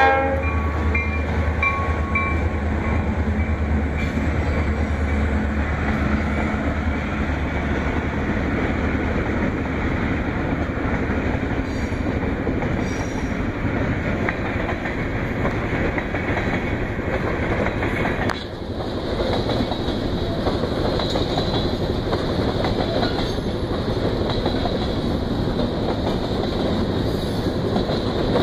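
A diesel-hauled freight train passing close by. The tail of a horn blast is heard at the very start, and the locomotives' low engine rumble fills the first few seconds. After that comes a long, steady rolling of freight cars over the rails.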